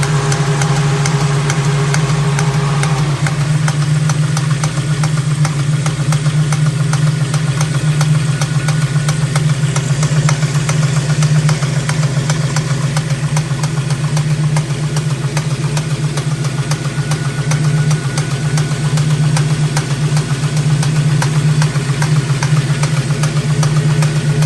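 Ford 351 Cleveland V8 idling steadily with a fast, even ticking over the engine's hum, a noise the owner suspects may be engine knock.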